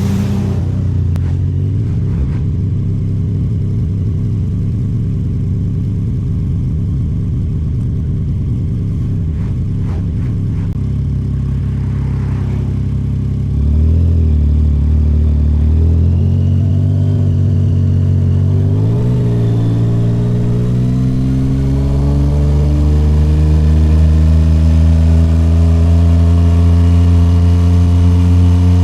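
Yamaha MT-09 SP's inline-three engine through a Toce full aftermarket exhaust, under way: the engine note drops just after the start, holds steady at low revs, steps up about halfway through, then rises slowly and evenly through the second half as the bike picks up speed.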